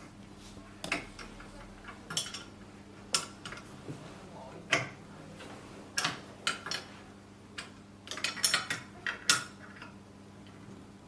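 Irregular metallic clicks and clinks of a small wrench on the fitting as the high-pressure hose is tightened onto a PCP hand pump, a dozen or so spread out with a quick cluster near the end.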